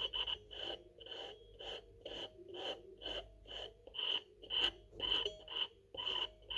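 Repeated short squeaks, about two a second, each a high chirp over a rasp, from a wire inside a Phaze Diana Audio turntable rubbing against an internal plate: the cause of the turntable's squeak.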